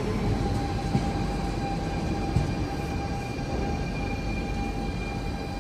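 Copenhagen S-train (Litra SA electric multiple unit) rolling slowly into the platform, a steady high whine over a low rumble.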